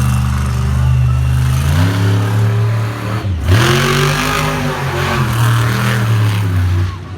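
Monster truck engine running hard and revving: the note holds steady, climbs, drops sharply off the throttle about three seconds in, then revs back up and settles.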